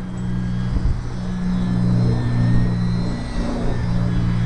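Small electric radio-control model airplane's motor and propeller droning steadily in flight, the pitch shifting a little with the throttle, over low rumbling wind buffeting on the microphone.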